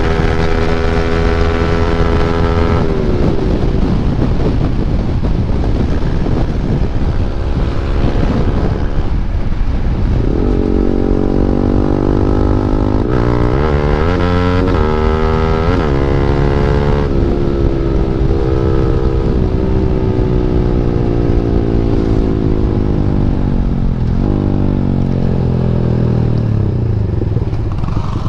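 KTM Duke 390's single-cylinder engine running through an Akrapovic exhaust with the dB killer removed, under way: holding steady revs, dropping off about three seconds in, then revving up and down through the middle and easing off in a long falling note before picking up again near the end, with wind rush over it.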